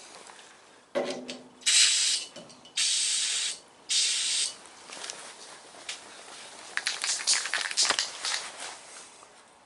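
Aerosol primer can spraying in three short hissing bursts, each under a second. Some scattered clicking and handling noises follow near the end.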